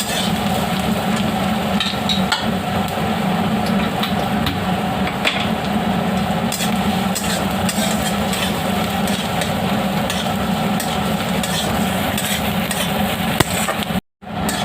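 Onion frying in oil in a pan, sizzling steadily while it is stirred, with light scrapes and taps of the spoon against the pan as it browns. The sound drops out for a moment near the end.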